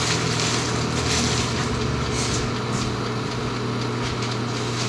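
A steady machine hum with a constant hiss behind it, unchanging throughout.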